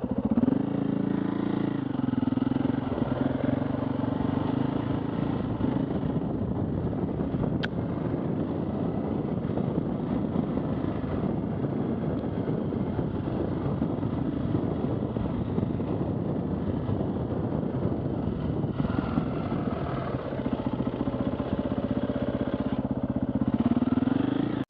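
Trail motorbike engine running steadily, its revs climbing briefly about a second in and again just before the end, with a single sharp click around a third of the way through.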